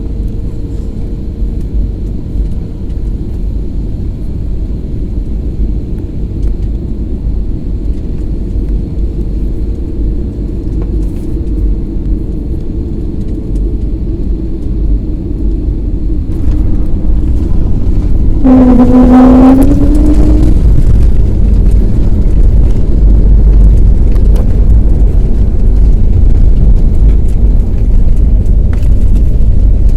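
Airliner landing: a loud, deep, steady rumble with a faint tone slowly falling in pitch, growing louder about halfway through. A short pitched tone sounds briefly about two-thirds of the way in.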